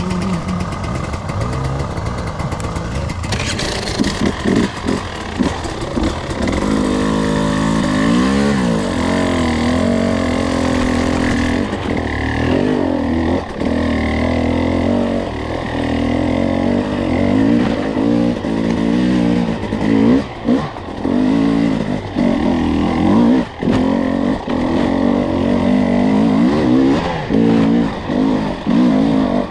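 Two-stroke enduro dirt bike engine running under way, its pitch rising and falling with the throttle, with several brief drops where the throttle is shut.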